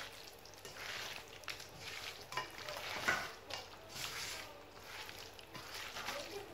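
Raw chicken pieces being mixed by hand into a wet spice paste in a bowl: repeated squishing strokes, roughly one a second.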